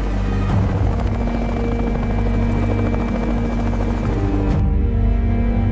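Helicopter rotor and engine noise over a sustained orchestral-style music score. The helicopter noise cuts off suddenly near the end, leaving only the music's held notes.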